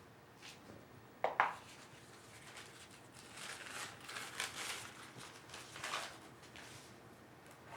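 A tablespoon scooping sand and dirt onto paper towels: a sharp clink about a second in, then light scraping and rustling.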